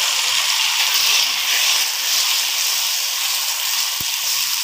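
Onions, tomato and ginger-garlic paste sizzling steadily in hot oil in a non-stick frying pan while being stirred with a wooden spatula, with a single short knock about four seconds in.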